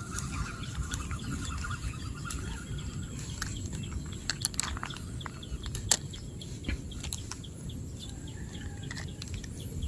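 Outdoor ambience: a low steady rumble with faint bird chirps near the start and scattered sharp clicks, one louder click about six seconds in.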